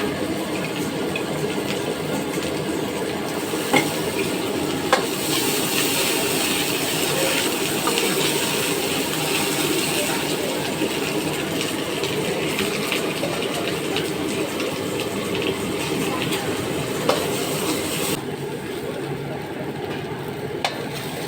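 Food stir-frying in a pan: a steady sizzle with stirring, and a few sharp knocks of the spatula against the pan. The high hiss of the sizzle drops away a few seconds before the end.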